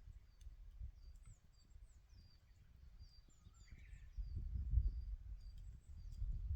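Small birds chirping over and over with short, high calls, above a low rumble that grows louder about four seconds in. A few faint pops come from the campfire.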